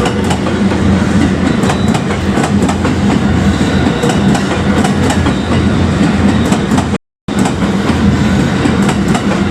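A JR Hanwa Line train passing close by over the level crossing, its wheels clacking steadily and loudly over the rail joints. The sound cuts out for a moment about seven seconds in.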